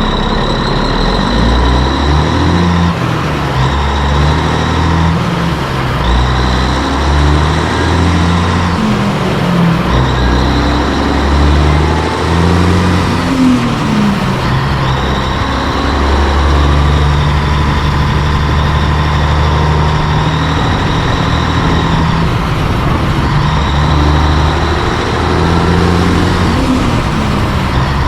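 Heavy diesel truck engine running, its low note shifting up and down in steps, with a steady high whine above it.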